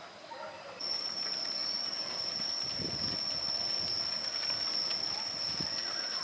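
An insect's high, steady, single-pitched drone that starts abruptly about a second in and holds on, with a few faint low knocks around the middle.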